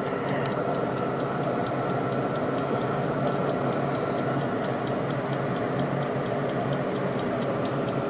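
Roasting air fryer running: a steady fan hum with the even ticking of its wind-up dial timer counting down.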